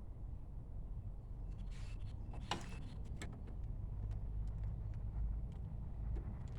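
Small clicks and rattles of a plastic car door handle and its latch rod being handled and fitted, with the sharpest click about two and a half seconds in, over a steady low rumble.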